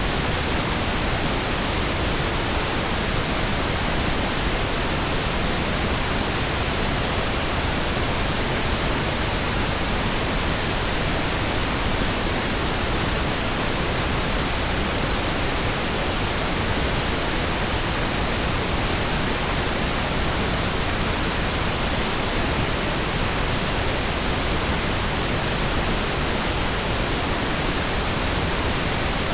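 Steady, even pink noise: synthetic noise spread across all pitches without any tones, clicks or changes.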